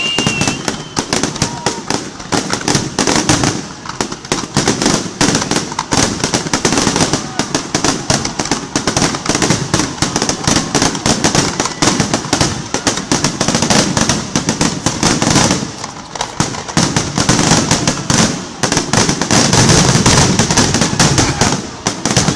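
Fireworks display going off in a continuous barrage: rapid, overlapping bangs and crackling with no pause, and a short whistle right at the start.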